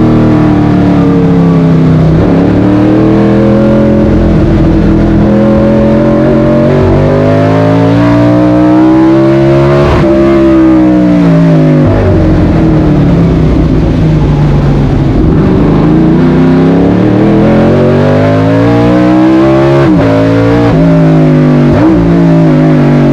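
Fuel-injected 5.0-litre Chevrolet 302 V8 in a mid-engined racing Alfa Romeo Alfetta GTV under hard acceleration, heard from inside the cabin where the engine sits. Its pitch climbs in long pulls and falls back sharply about ten seconds in, with quick dips near the end as gears change.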